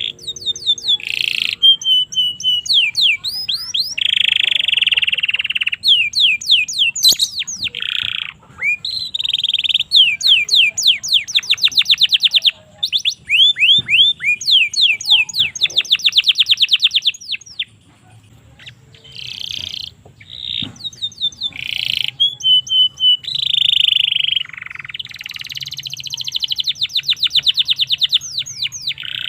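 Domestic canary singing a long, loud song of fast trills and rapid repeated downward-sweeping notes, with rolling buzzy phrases and a short pause about two-thirds of the way through.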